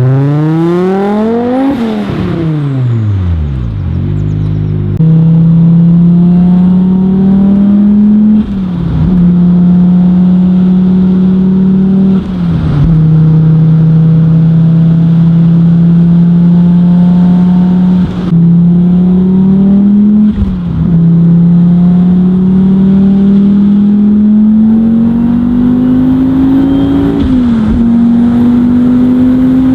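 Audi RS2 Avant's turbocharged 20-valve inline-five, tuned to 600 hp, revs up and falls back once. It then pulls hard at high revs with a steady, slowly rising note, broken several times by a brief drop in pitch and loudness at each gear change.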